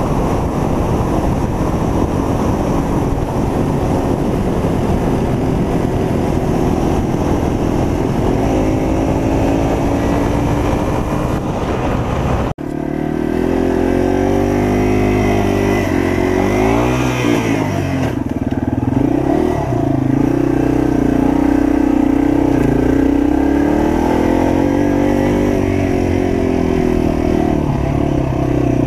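Yamaha TW200's air-cooled single-cylinder engine running on the move, with heavy wind noise on the microphone over it at first. About twelve seconds in the sound drops out for an instant, and then the engine is heard plainly, its pitch rising and falling as the throttle changes.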